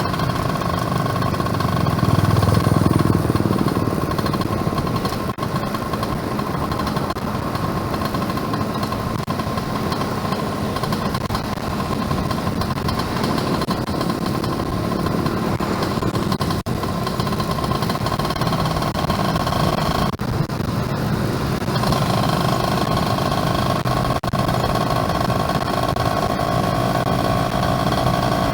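Yamaha F1ZR's small two-stroke single-cylinder engine running steadily while the motorcycle is ridden. The engine note briefly drops away about two-thirds of the way through, then picks up again.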